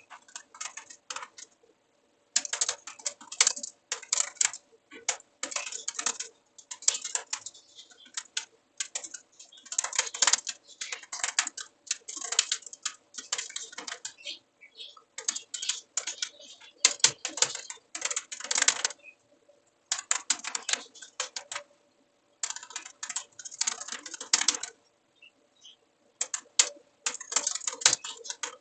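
Typing on a computer keyboard in quick bursts of keystrokes with short pauses between them, over a faint steady hum.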